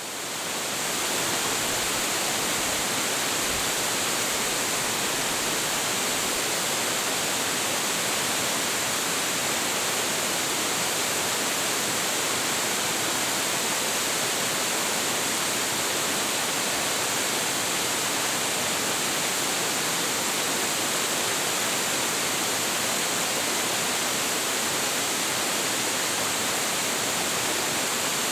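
A large, high-volume waterfall pouring steadily, a dense even rush of falling water. It fades in over the first second or so, then holds constant.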